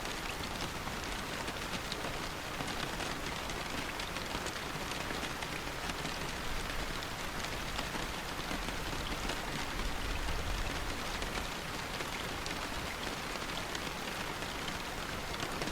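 Steady rain falling, a dense even hiss dotted with many fine drop ticks.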